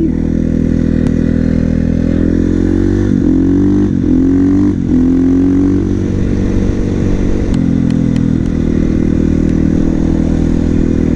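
A 450 supermoto's single-cylinder engine under way. Its pitch climbs through three quick upshifts a few seconds in, then holds steady at cruising speed.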